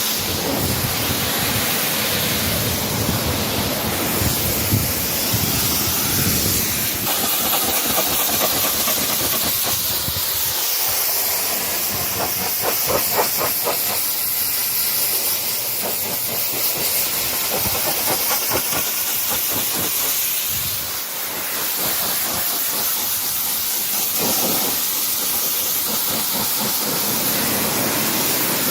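Pressure washer spraying water, a steady hiss throughout.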